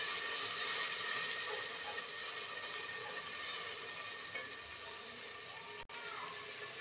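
Ginger-garlic paste and onions sizzling steadily as they fry in oil, stirred now and then, the hiss fading slightly over the seconds.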